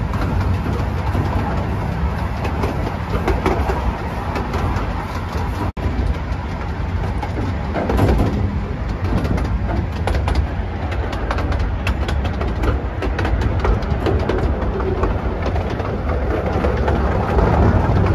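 15-inch gauge miniature railway train running, heard from an open carriage: a steady low rumble of wheels on the track with many quick clicks and rattles.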